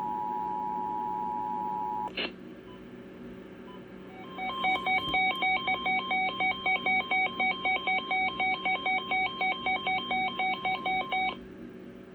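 Weather radio alert tones: the steady two-tone attention signal cuts off with a click about two seconds in. After a short pause comes a fast run of touch-tone-like beeps, tone pairs switching several times a second for about seven seconds, over a faint steady hum.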